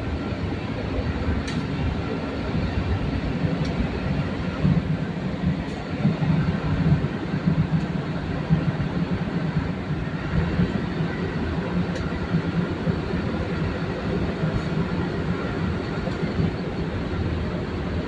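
Steady low rumbling noise of a moving vehicle, with a few faint clicks.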